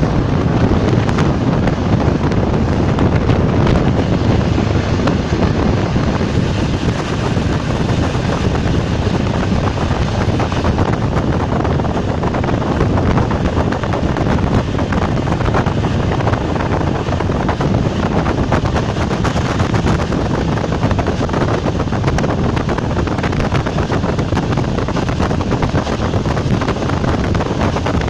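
ČD class 460 electric multiple unit running along the line: a loud, steady rush of wheel and wind noise that holds even throughout.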